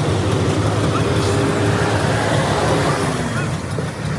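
A vehicle engine idling steadily, with road traffic noise around it.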